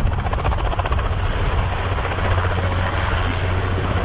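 Helicopter running steadily, its rotor beating in a fast, even rhythm over a constant low hum.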